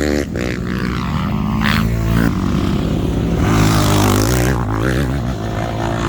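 KTM dirt bike engine running and revving up and down, its pitch rising and falling several times. The rider says the bike's transmission is blown.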